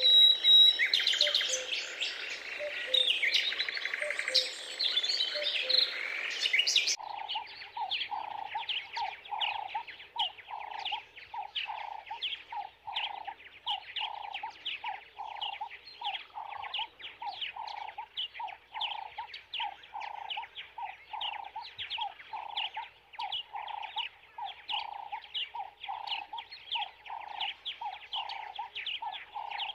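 A crowd of small birds chirping and twittering together, many overlapping high calls. About seven seconds in, this cuts abruptly to a different recording: a lower-pitched call repeated steadily a little more than once a second, with quick high chirps between the calls.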